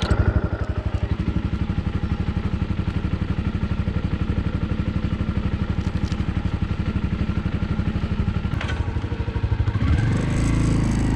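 Motorcycle engine idling with a fast, even pulsing beat. About ten seconds in it becomes louder and smoother.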